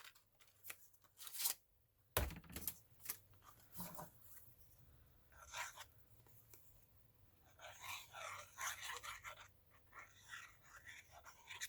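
Paper and small craft pieces being handled: scattered faint clicks and taps, with a stretch of soft rustling and scraping near the end.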